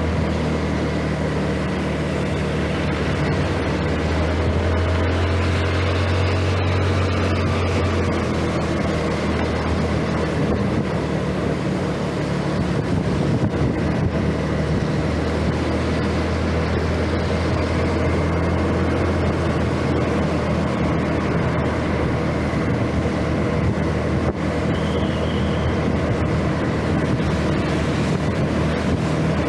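Scooter engine running steadily while riding, its hum easing and picking up again as speed changes, over road and wind noise.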